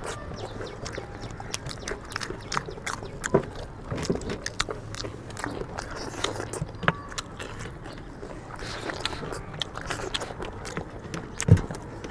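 People eating rice and chicken curry quickly: irregular chewing, biting and mouth clicks and smacks, with one louder thump near the end.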